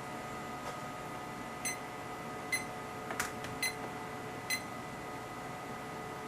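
Four short electronic beeps from bench test instruments, spaced about a second apart, with a single click between the second and third, over a steady faint electronic whine.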